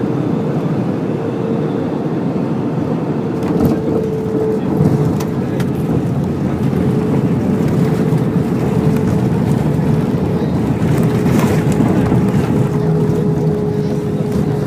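Airliner cabin noise during landing: a steady roar of engines and rushing air with a steady hum, and a few brief knocks.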